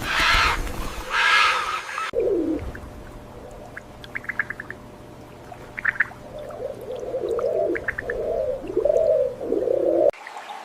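Birds calling: low, wavering, dove-like cooing with several short, rapid series of high chirps over it. Two brief rushing noises come first, in the opening two seconds.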